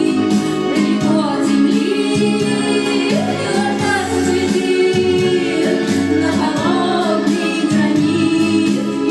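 A song performed live: singing voices over an instrumental backing with a steady beat.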